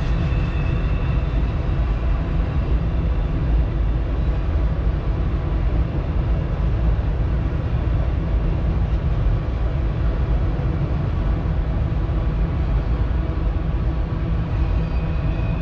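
Double-stack container freight train rolling steadily across a bridge: a continuous low rumble with no pauses, and a faint high ringing tone coming in near the end.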